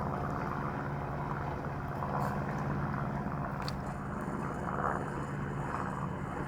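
Steady low motor hum under a haze of outdoor noise, with a faint click or two.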